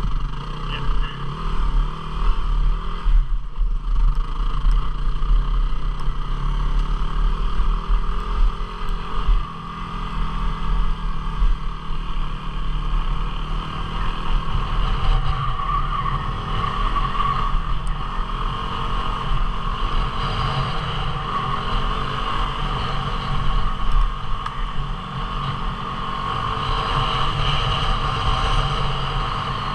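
250 cc single-cylinder dual-sport motorcycle engine running while ridden along a trail, its loudness rising and falling with the throttle.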